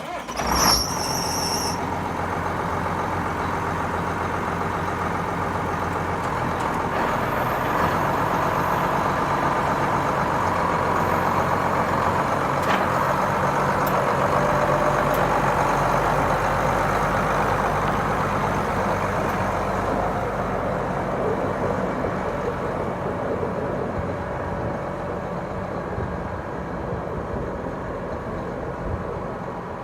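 Case IH 7140 tractor's six-cylinder diesel engine running steadily after a sudden start, with a brief high-pitched squeal in the first two seconds. It grows a little louder through the middle and eases off toward the end.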